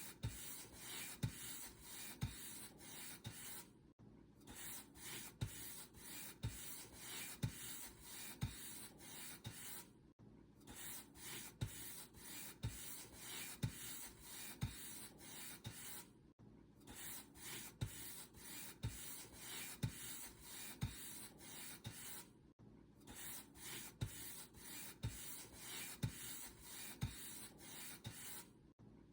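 Paint brush bristles dragged over a surface in short back-and-forth strokes, a dry scratchy rubbing at about two strokes a second, with a brief pause about every six seconds.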